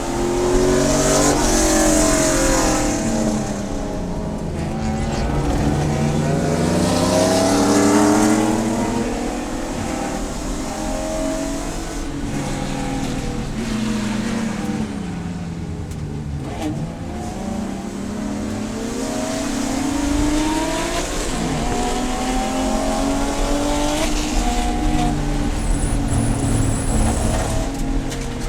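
Race car engine at racing speed: its pitch climbs twice as it accelerates, falls for several seconds through the middle as it slows, then climbs again and holds high toward the end.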